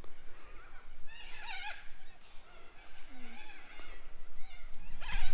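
Birds calling, with a burst of quick high chirping calls about a second in and fainter scattered calls after it.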